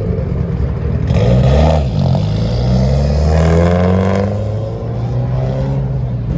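Car engine revving: its pitch jumps up and drops back about a second in, then climbs steadily for a couple of seconds and levels off.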